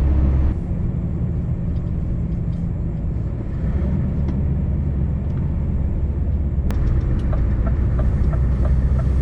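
Scania V8 truck engine running on the road, easing off about half a second in and pulling harder again around four seconds in. A few faint light ticks near the end.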